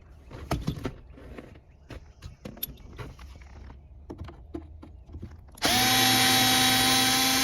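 Cordless power driver with a Phillips bit backing out a console screw. First come light clicks and taps of the bit and screw being handled. About two-thirds of the way in the motor runs at a steady whine for about two seconds, then winds down in pitch as the trigger is released.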